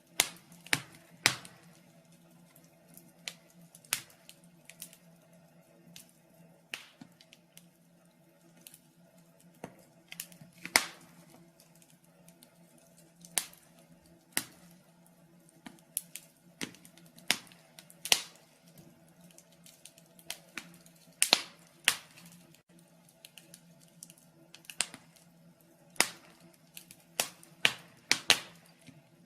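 Wood fire crackling in a fireplace: irregular sharp pops and snaps, roughly one or two a second and uneven in strength, over a faint steady low hum.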